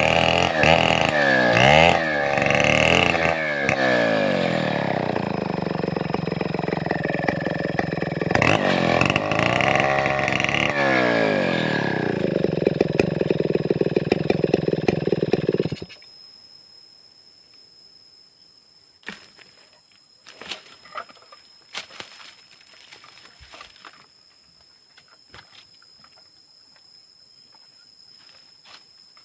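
Stihl 070-type two-stroke chainsaw running, its engine pitch rising and falling as it is revved up and down, then cutting off suddenly about two-thirds of the way through. Afterwards come a few sharp knocks over a steady thin high tone.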